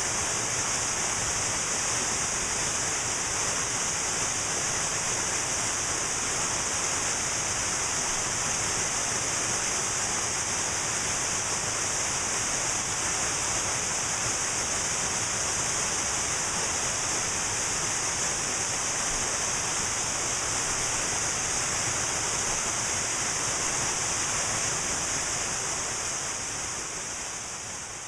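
Steady rushing of a cascading waterfall, fading out over the last few seconds.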